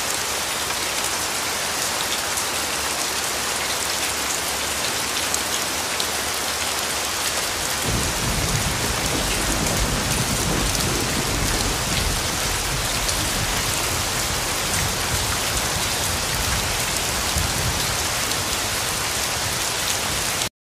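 Steady heavy rain pattering on hard surfaces, with a low rumble of thunder setting in about eight seconds in. The sound cuts off suddenly near the end.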